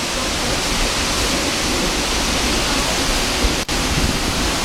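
Tall waterfall roaring up close: a loud, steady rush of falling water. It cuts out for an instant about three and a half seconds in.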